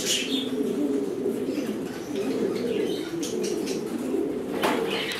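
Many domestic pigeons cooing together in a loft, a steady overlapping murmur of low calls. There is a brief flutter of wings about four and a half seconds in.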